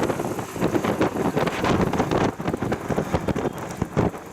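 Wind buffeting the microphone of a camera carried on a moving bicycle, an uneven, gusting rush.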